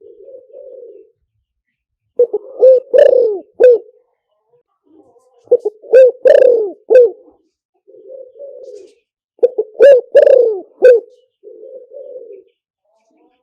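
Spotted dove cooing: three loud phrases of several coos each, about four seconds apart, with softer coos in between.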